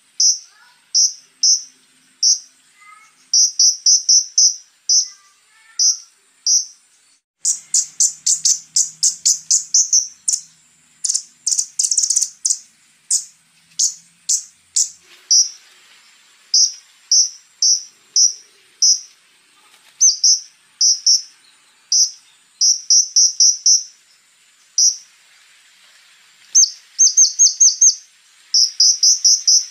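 Konin singing: runs of short, sharp, high chirps, several a second, in bursts with brief pauses. A harsher, denser run comes from about 7 to 15 seconds in. A steady high insect drone sounds behind it.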